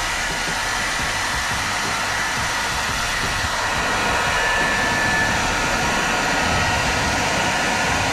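Hair dryer running steadily on its second speed setting: a constant rush of air with a faint high whine.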